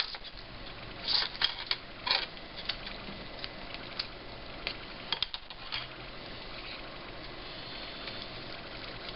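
Light clicks and taps from handling parts or tools on a repair bench: a cluster about a second in, another tap at four seconds, and several more around five seconds in, over a steady low hiss.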